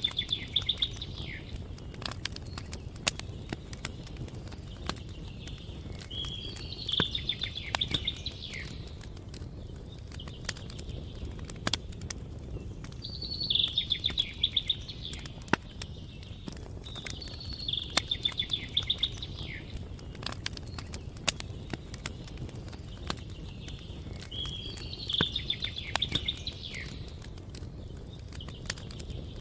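A songbird repeating a short, fast trilled phrase about every five to six seconds, five times, over the irregular popping and crackling of a campfire and a steady low rumble.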